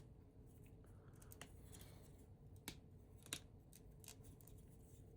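Small plastic clicks of LEGO bricks being handled and pressed together, faint over quiet room tone, with two sharper clicks about half a second apart near the middle.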